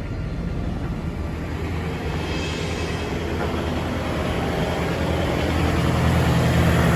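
Low, steady rumble of a heavy engine that slowly grows louder, loudest near the end.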